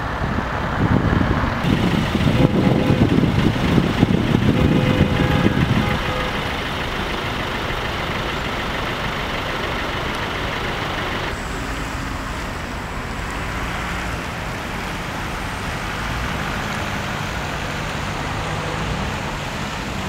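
Street traffic noise: vehicles running past on a city boulevard. A louder low rumble fills the first six seconds, then the traffic settles to a steady background noise.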